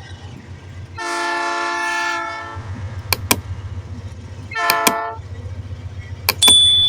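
Passing train: its horn sounds one long blast and then a short one over a low rumble, with pairs of sharp wheel clacks over the rail about every second and a half. Near the end a loud, steady, high-pitched squeal sets in.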